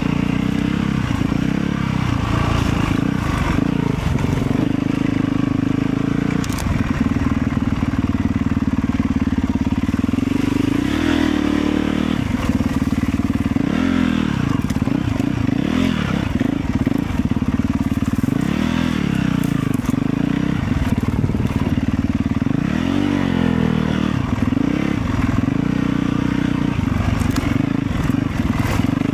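Motorcycle engine running steadily under way, its pitch rising and falling several times as the throttle and speed change.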